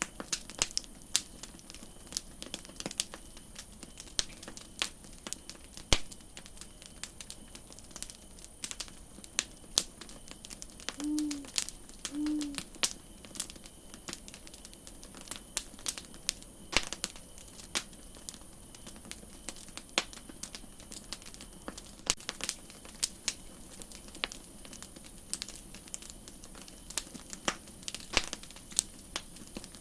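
Campfire crackling: an irregular run of sharp pops and snaps over a faint steady hiss. Around the middle, two short low tones sound about a second apart.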